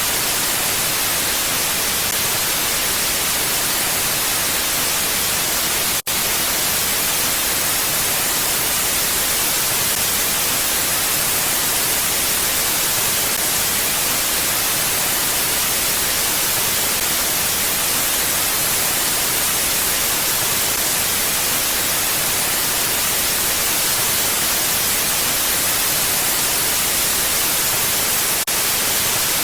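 Steady wind noise: an even, constant hiss without gusts, with a momentary dropout about six seconds in.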